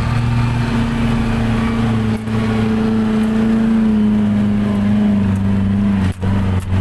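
Suzuki Jimny's engine running steadily under load on an off-road trail, its pitch sagging slowly, with short drops in sound about two seconds in and again near the end.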